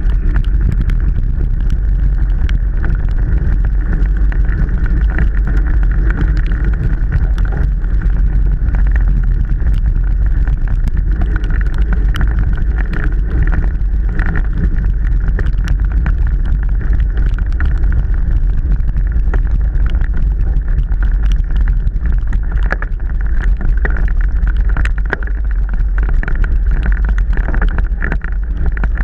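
Mountain bike being ridden over rough, wet trail, heard from a camera on the bike or rider: steady wind rumble on the microphone, with the bike rattling and many small clicks and knocks throughout.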